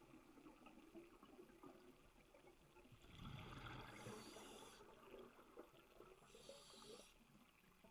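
Faint scuba regulator breathing underwater: a bubbling exhale about three seconds in and hissing inhalations shortly after and near the end.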